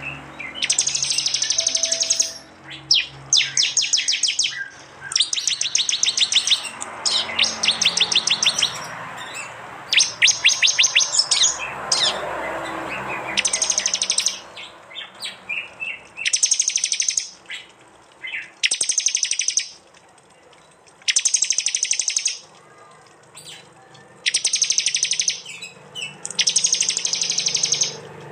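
Prinia (prenjak) calls: shrill, high-pitched phrases about a second long, repeated every second or two, some delivered as fast rattling trills. These are the sharp 'tembakan' calls used as training audio for songbirds, with a couple of longer pauses past the middle.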